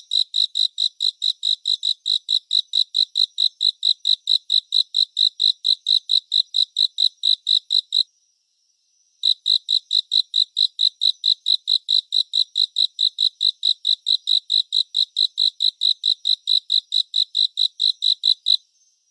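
A cricket chirping in an even, rapid rhythm of high-pitched pulses, about five a second. It pauses for about a second midway, then resumes and stops just before the end.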